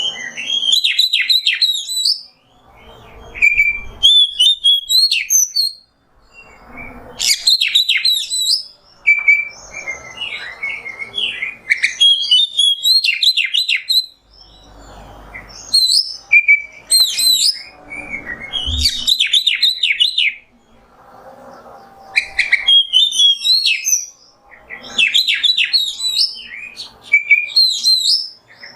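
Oriental magpie-robin (kacer) singing loud, varied whistled phrases with quick rising and falling notes, in bursts of one to three seconds with short pauses between them.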